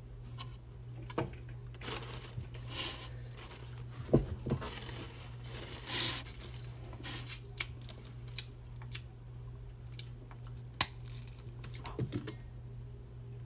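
Seafood shells, snow crab and shrimp, being cracked and peeled by hand: scattered sharp snaps and clicks with crinkly rustling and tearing between them, one louder snap about eleven seconds in.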